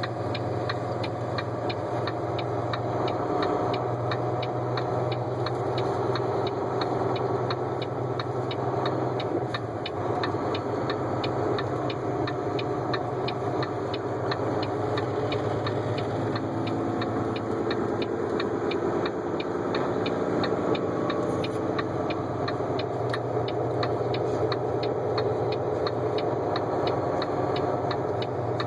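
Steady engine and road drone inside a moving vehicle's cab, with a faint, regular ticking of about two to three clicks a second.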